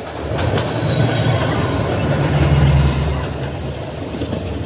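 A WDG-class diesel freight locomotive passing close on the adjacent track: its deep engine rumble swells to its loudest a couple of seconds in, then eases as its open freight wagons rattle by. Underneath runs the steady clatter of the moving passenger train, with a thin high wheel squeal.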